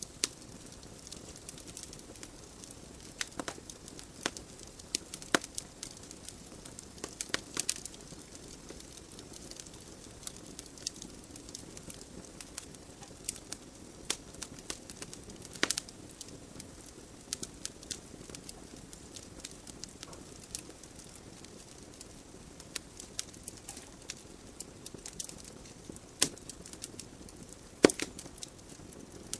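Wood fire burning in a fireplace: a soft steady hiss of flames under irregular crackling, with sharp louder pops from the burning logs every few seconds.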